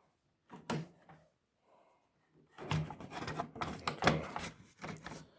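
A single sharp knock, then a couple of seconds later a run of clattering knocks and rustling from things being handled in a small room.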